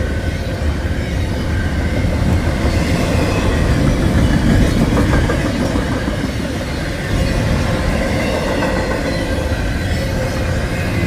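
Norfolk Southern freight train rolling past, a steady rumble and clatter of wheels on the rails.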